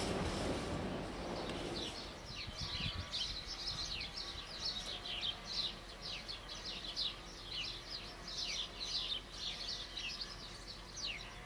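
Small birds chirping in quick, falling notes, many in a row. In the first second or so a broad rumble fades away beneath them.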